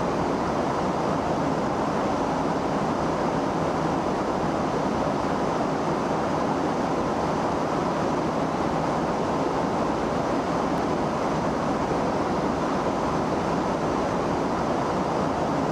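Steady rushing roar of a jet engine running at constant power, even throughout with a faint hum in it.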